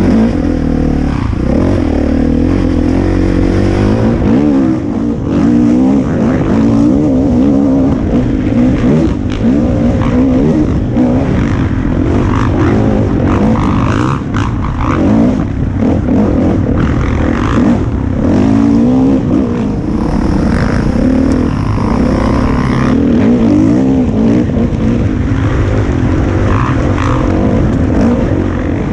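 Four-stroke 450 dirt bike engine under a rider, revving up and down continually through the gears while riding trail.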